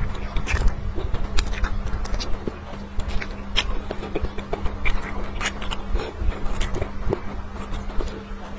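Close-miked wet chewing and lip smacking on braised pork trotter, a quick irregular run of sticky mouth clicks over a steady low hum.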